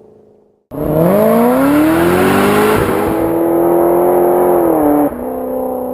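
Turbocharged V8 of a Mercedes-AMG CLS63 under hard acceleration, cutting in suddenly. The revs climb for about two seconds and are held high, then drop sharply about five seconds in and run on lower.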